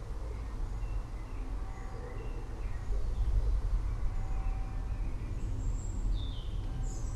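Forest birds chirping in short, scattered notes over a steady low rumble of distant thunder that slowly grows louder toward the end.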